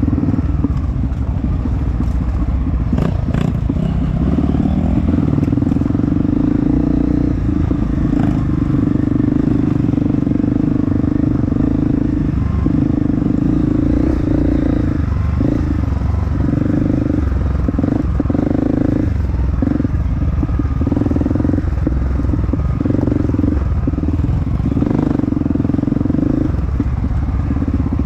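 Off-road dirt bike engine running under load, a steady drone that in the second half repeatedly drops away for a moment and picks up again as the throttle is closed and reopened.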